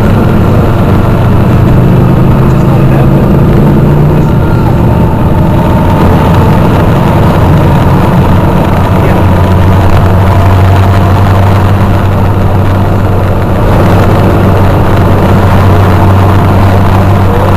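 Motorcycle engines running loudly and steadily, with a deep low hum throughout.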